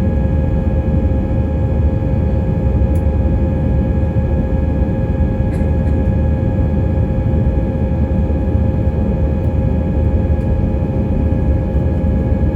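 Steady loud cabin noise inside an Airbus A320-232 with its IAE V2500 jet engines running under power: a deep rumble of engine and airflow with steady whining tones over it. A couple of faint clicks about three and five seconds in.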